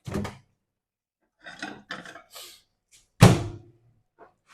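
Kitchen handling noises: a knock, a short run of rubbing and scraping, then a heavier thunk a little over three seconds in, as a bowl of melted mozzarella is handled.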